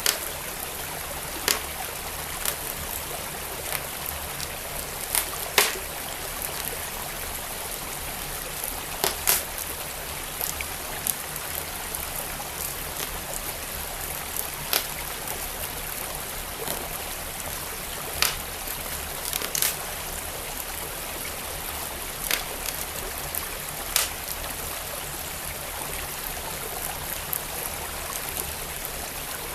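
Wood fire crackling, with sharp irregular pops every second or few, over the steady rush of a flowing stream.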